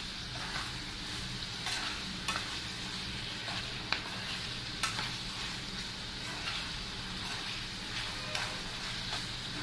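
Liver and skin pieces sizzling steadily in oil in a frying pan, with irregular clicks and scrapes of a spoon against the pan as the spiced mixture is stirred.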